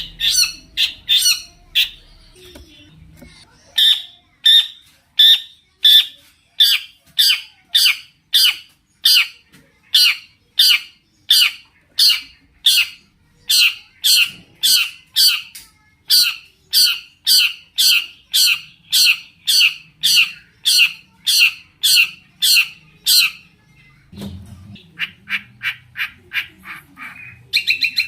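Long-tailed shrike (cendet) calling: a long run of short, evenly spaced notes, about one and a half a second, after a brief pause near the start. Near the end it switches to a quicker, quieter run of notes and then a rapid buzzy trill.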